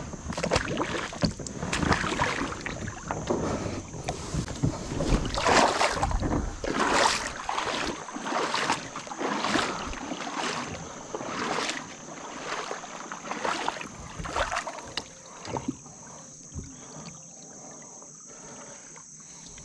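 Kayak being pushed and paddled through grass and sticks: a rhythmic swishing roughly once a second that fades out after about fifteen seconds. A steady high insect drone runs underneath.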